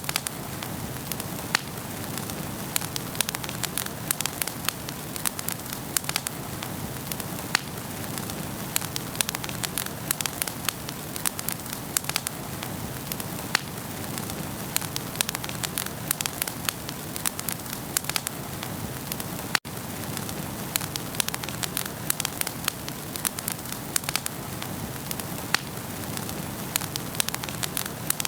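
Wood fire in a fireplace burning with steady hissing and frequent irregular crackles and pops. There is a very brief dropout about two-thirds of the way through.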